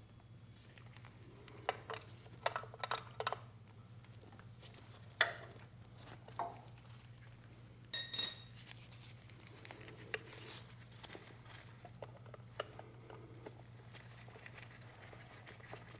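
Hand tools clinking against metal fittings on a Yanmar 1500 tractor as a fitting is worked loose: scattered metallic clicks and clanks, with a cluster of quick clicks about two to three seconds in and a ringing clink about eight seconds in.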